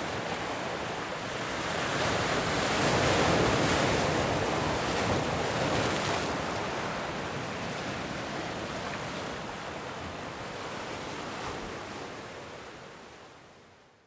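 Ocean surf: the rush of a wave swells to a peak a few seconds in, then slowly washes out and fades, cutting off abruptly at the end.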